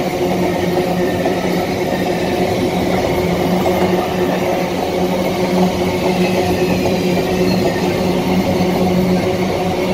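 Freight train of open-top wagons rolling past close by: a steady, unbroken noise of steel wheels running on the rails, with an even hum underneath.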